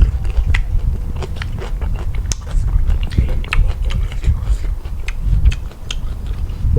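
A person chewing food with their mouth close to the microphone, with irregular small clicks from the chewing.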